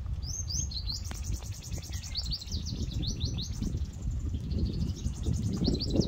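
Small birds chirping in quick runs of short, high, falling notes, over a steady low rumble.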